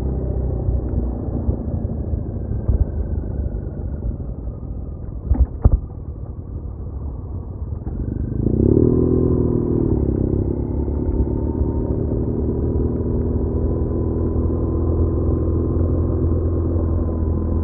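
BMW R1200R boxer-twin motorcycle engine under way with wind rush. The engine note sinks as the bike slows, with a couple of short knocks about five seconds in, then about halfway through it picks up under throttle and settles to a steady cruise.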